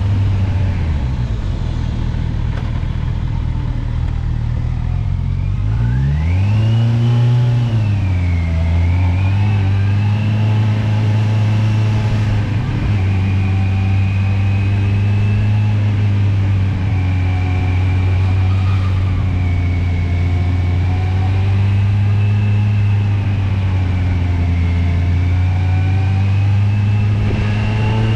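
Kawasaki motorcycle engine running steadily under load on a climb, its revs rising sharply about six seconds in and dropping back a second or two later before settling into a steady pull.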